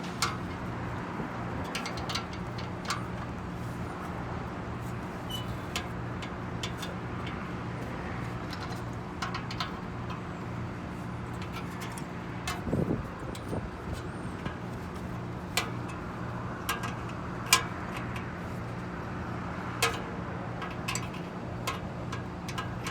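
Steady electrical machinery hum with a low, slightly pulsing drone, broken by scattered short clicks and taps.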